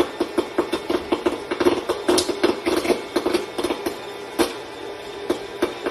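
A pet scrabbling on top of a food container: many quick, irregular clicks and knocks over a steady hum.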